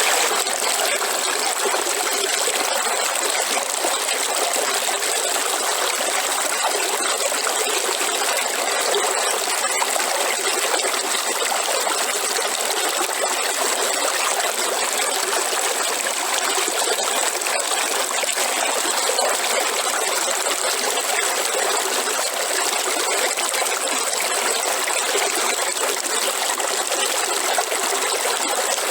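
Waterfall: falling water rushing in a steady, unbroken hiss, bright and with no deep rumble.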